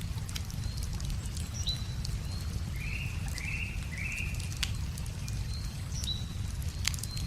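Wood bonfire crackling with irregular sharp pops over a steady low rush of a river, while birds chirp; a bird gives three short calls about three to four seconds in.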